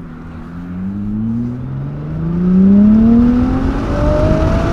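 Nissan GT-R R35's twin-turbo V6 accelerating hard, heard from inside the cabin: the engine note climbs steadily in pitch and grows louder through one long pull.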